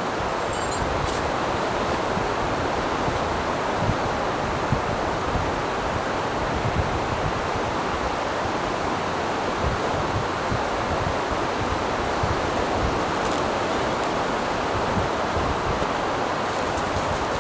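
Steady rushing noise of strong wind and surf on a beach, with gusts buffeting the microphone in low rumbles.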